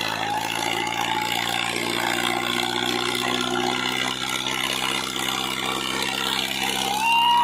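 Tractor diesel engine running steadily under way. A short rising tone cuts in near the end, and the sound is a little louder there.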